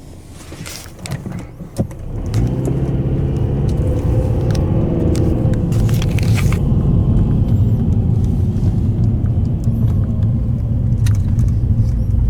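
Car engine running with a steady low rumble that starts up loudly about two seconds in, after a few light clicks.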